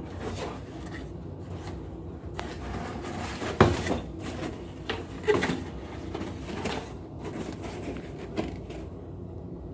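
Handling noises: a few separate knocks and clunks of objects being moved, the loudest about three and a half seconds in, with others around five and seven seconds.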